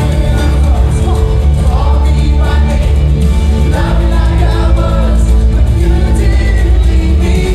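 Live gospel worship music: a band with heavy bass and voices singing together.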